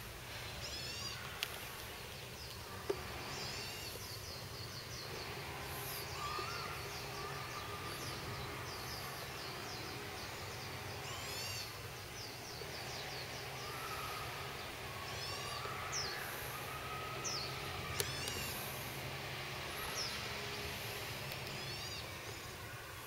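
Wild birds singing and calling over and over, short chirps and quick gliding notes, over a steady low hum. A few sharp clicks stand out, near the start and about two-thirds of the way through.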